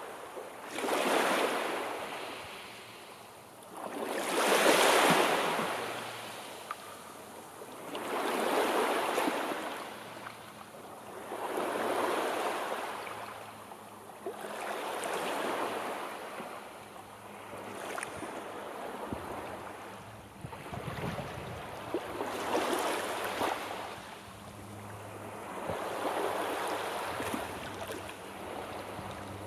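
Sea waves breaking and washing in, a swell of surf rising and fading about every three to four seconds, the strongest about five seconds in.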